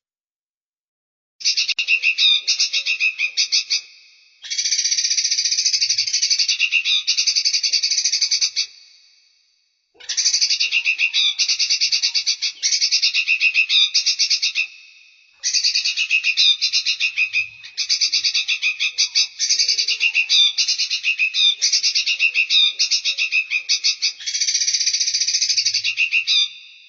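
Small songbird singing rapid, buzzy pulsed trills in phrases of a few seconds each, broken by short pauses, as looped in a bird-training (masteran) recording.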